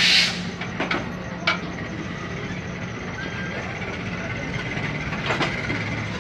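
Steady low diesel hum of a passenger train beside the platform, with a short hiss at the start and a few sharp clicks.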